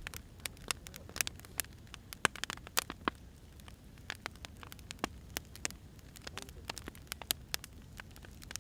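Wood fire crackling: irregular sharp pops and snaps over a low steady rumble, busiest in the first three seconds and sparser after.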